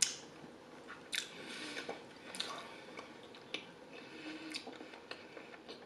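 Close-miked chewing of garlic pizza with the mouth closed: quiet, wet mouth clicks and squishes, roughly one a second.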